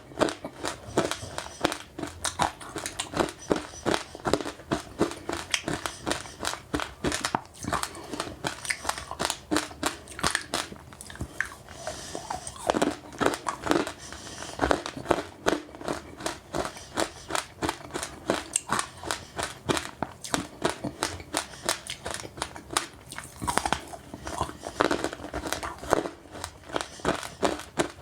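A person chewing crunchy passionfruit pulp and seeds with sesame seeds: a rapid, uneven run of small crisp crunches, several a second, with some louder bites among them.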